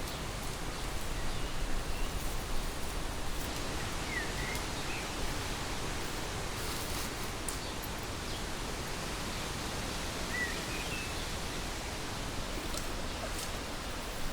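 Steady, even outdoor hiss, with a few short faint bird chirps about four seconds in and again near ten seconds.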